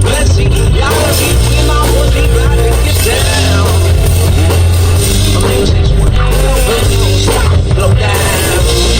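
Loud live rock music from a one-man band: a drum beat played with foot pedals over a deep bass line.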